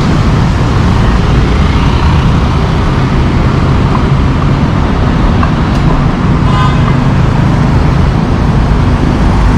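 Busy city road traffic: a steady, loud rumble of passing cars and buses, with a brief higher-pitched tone about two-thirds of the way through.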